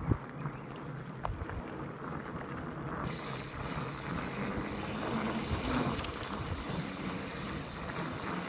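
Mountain bike riding on a dirt trail: the freewheel hub ticks like a ratchet while coasting over continuous rolling and rattling noise. There is a sharp thump just after the start and a click about a second later.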